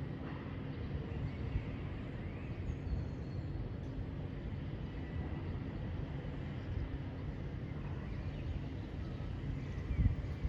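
Faint bird calls, a few short chirps, heard over a steady low outdoor rumble. There are low bumps on the rumble near the end.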